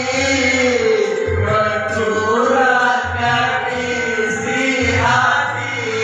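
A person singing with musical accompaniment, holding long notes that slide in pitch.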